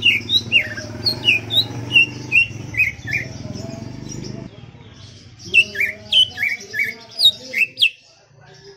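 Cucak ijo (leafbird) singing: rapid strings of short, sharp whistled notes sliding up and down, about three a second, pausing for a couple of seconds midway and stopping near the end. A low hum underneath cuts off about halfway.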